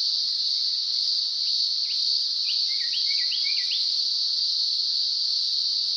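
Cicadas calling in a steady high-pitched chorus, with a bird giving a quick run of short rising chirps from about one and a half to four seconds in.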